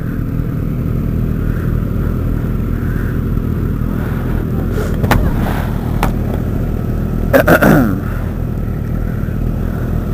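Motorcycle engine idling steadily in neutral at a stop, heard from a helmet camera. A couple of sharp clicks come around the middle, and a brief louder burst that falls in pitch comes about seven and a half seconds in.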